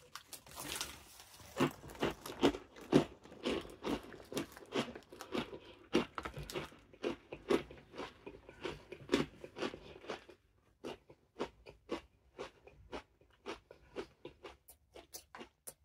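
Crunching and chewing a mouthful of crispy coated peanuts: a quick run of crisp crunches that thins out after about ten seconds into fewer, sharper ones.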